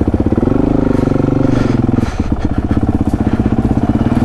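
Honda CRF450 single-cylinder four-stroke dirt bike engine running, revving up about half a second in, easing off around two seconds in, then running steadily.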